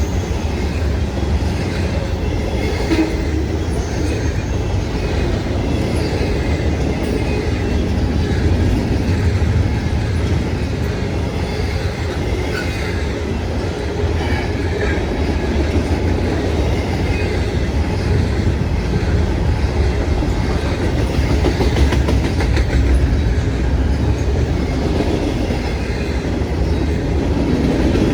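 Freight train cars rolling past on the rails: a steady, loud rumble with the clickety-clack of wheels over rail joints.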